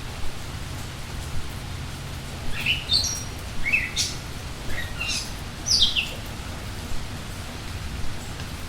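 Steady rain falling, with a small songbird giving a quick run of short, sharp chirps in the middle.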